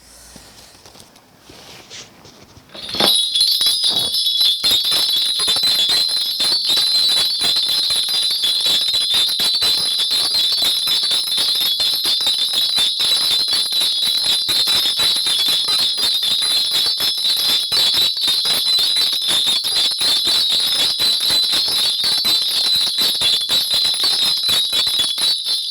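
A Korean shaman's cluster of small metal bells shaken rapidly and without a break, starting about three seconds in, as part of a spirit-divination reading.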